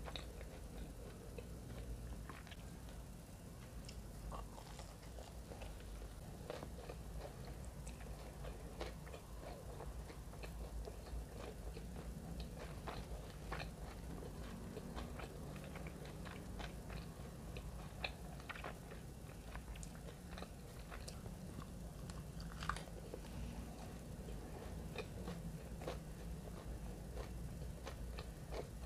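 Close-miked biting and chewing of a breaded fried capelin, with scattered sharp crunches of the crust all through.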